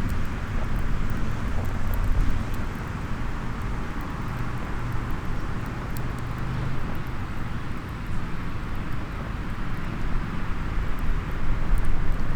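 Small wood fire in a compact fire pit crackling with faint scattered ticks, over a steady low background rumble.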